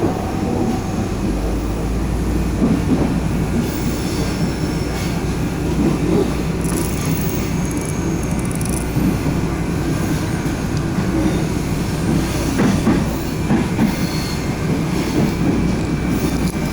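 Railink airport train running on the track: a steady rumble of wheels and running gear, with a few short high-pitched tones.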